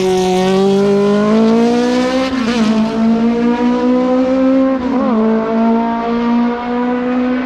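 Historic hillclimb race car's engine at high revs under hard acceleration, its pitch climbing steadily, broken by quick gear changes about two and a half and five seconds in.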